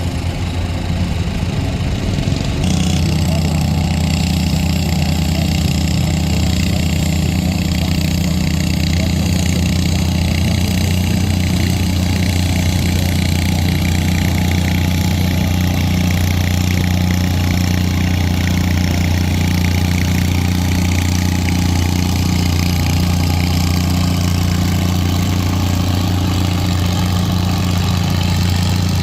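Antique farm tractor engine running steadily at a constant speed, its note getting fuller about three seconds in and then holding.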